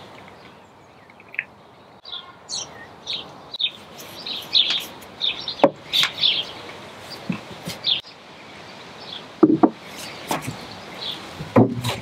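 Songbirds chirping, many short high calls scattered throughout, with a few sharp knocks about halfway through and again near the end.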